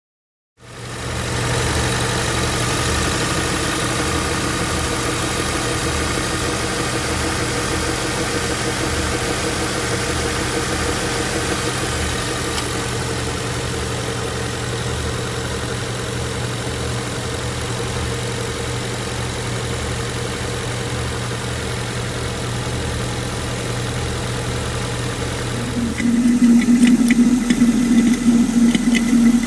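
Honda Accord engine running at idle with a low, even pulsing. Near the end the sound changes to a louder, steadier hum with light rattling ticks.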